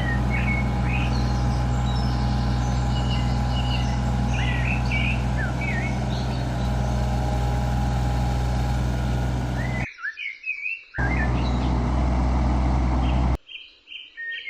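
Digger's diesel engine running steadily while birds sing over it. About ten seconds in the engine sound cuts out for a second and comes back, then cuts off again shortly before the end, leaving only birdsong.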